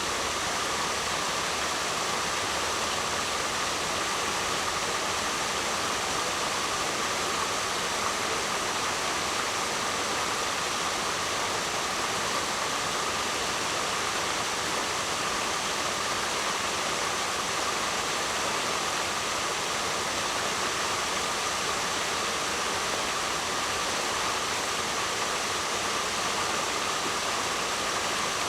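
Waterfall: a steady, unbroken rush of falling water, with no swells or pauses.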